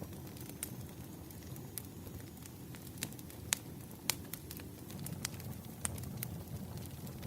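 Burning firewood crackling: irregular sharp snaps and pops over a low, steady rumble of the fire.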